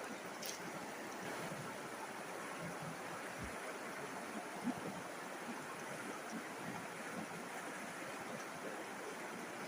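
River water flowing in a steady, continuous rush, with one short tap a little before the middle.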